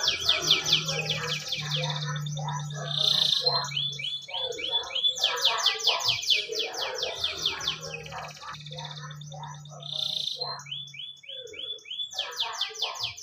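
Canary singing long, fast trills of rapidly repeated high sweeping notes. The song comes in phrases that change note type every second or so, with short pauses between them, over a low steady hum.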